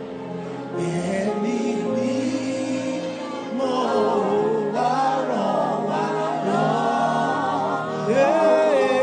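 A gospel worship song: singing voices with a wavering vibrato over sustained instrumental backing.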